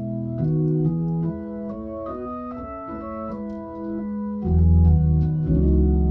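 Hammond A100 organ played through a Leslie Model 45 speaker, playing a gospel 'talk music' chord progression in E. The held chords move every half second or so, and a loud, deep bass note comes in about four and a half seconds in.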